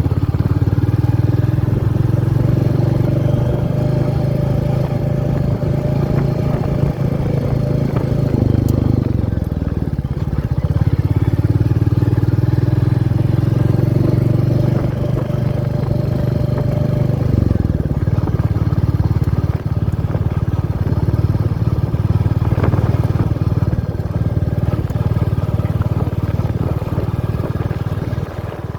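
Royal Enfield Meteor 350's single-cylinder engine running while the bike is ridden. The engine note dips and picks back up about a third of the way through, and drops again a little past halfway.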